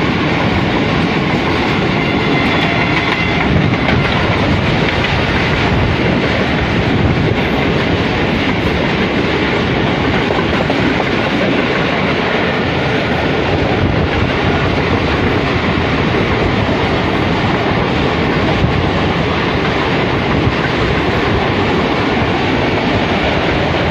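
Two passenger trains running side by side on parallel tracks at speed: a loud, steady din of wheels on rails, heard from the window of one of the moving trains.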